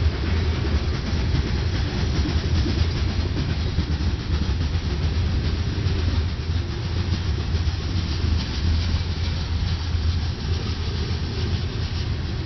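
Covered hopper cars of a grain train rolling past: a steady rumble of steel wheels on the rails.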